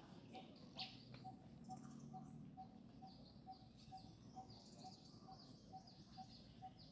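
Faint bird chirping: many short, high calls overlapping, with a soft short note repeating evenly about twice a second underneath.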